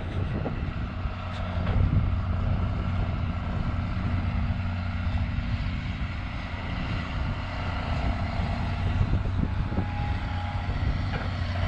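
A motor vehicle's engine running steadily, a low even hum with no change in speed.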